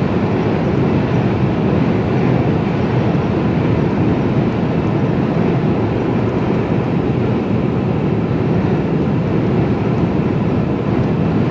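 Mercedes-Benz Actros lorry cruising at about 53 mph, its engine and tyre and road noise a steady drone heard inside the cab.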